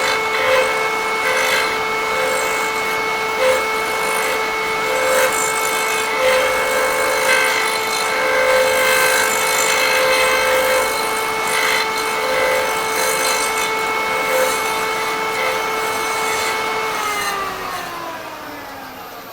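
Motor of a woodturning threading jig's cutter running with a steady whine while it cuts threads into wood, with uneven rasping cutting noise over it. About three-quarters of the way through the motor is switched off and its whine falls in pitch as it spins down.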